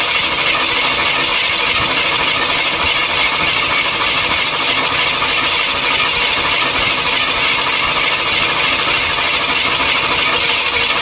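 Ford 302 V8 running at a rough idle, loud and steady with valvetrain clatter. The number 4 exhaust valve is barely opening, which the owner thinks is more than likely a lifter problem rather than a flat cam.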